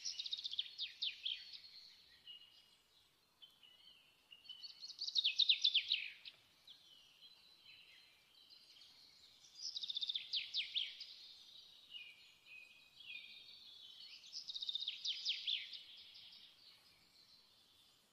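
Bird song: a songbird sings phrases of rapid high trilled notes about every five seconds, with softer twittering in between.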